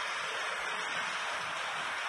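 Steady hiss with no distinct events.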